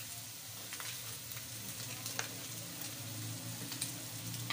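Shredded chicken and onions sizzling steadily in a nonstick frying pan, with a few light clicks of a wooden spatula against the pan and a low hum underneath.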